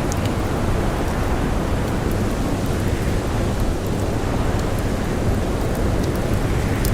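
Blizzard wind blowing steadily in a dense rushing rumble, with scattered sharp crackles and pops of a wood campfire.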